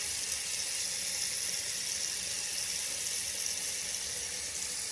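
Water running steadily from an open tap into a sink, drawn off to test whether the gas water heater is delivering hot water yet.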